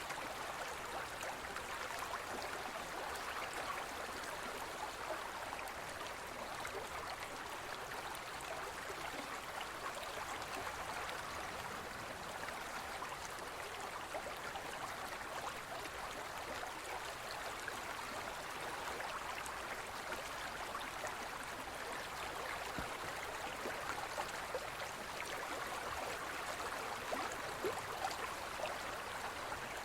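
Forest stream flowing over stones, a steady burbling rush of water with fine splashes and gurgles.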